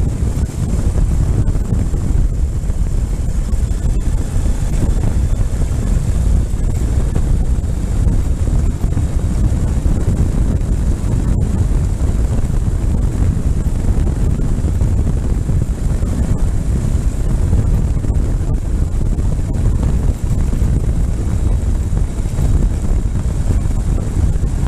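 Heavy wind buffeting the microphone over a motorcycle running steadily at road speed.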